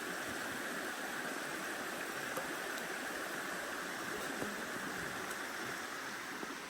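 Steady rush of flowing water, an even hiss with a few faint ticks.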